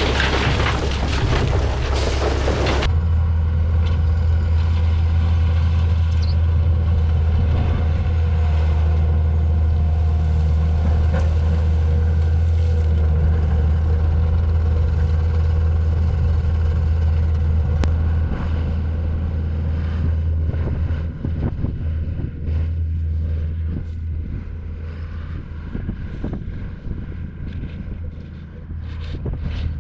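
Heavy diesel equipment engine running steadily with a deep hum. A loud rushing hiss cuts off sharply about three seconds in, and the engine sound eases and turns more uneven in the last third.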